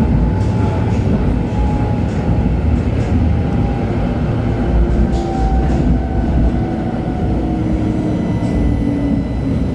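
LHB TW2000 Stadtbahn light-rail car running, a steady rumble of wheels on rail under a drive whine whose pitch falls slowly throughout. The falling whine is typical of the car slowing down.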